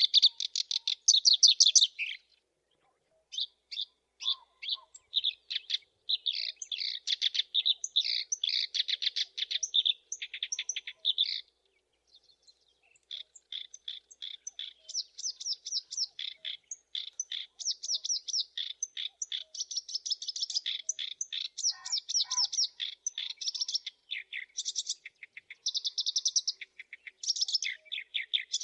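Black-browed reed warbler singing: long chattering runs of rapid, repeated high notes, broken by two short pauses, one about two seconds in and one a little before the middle.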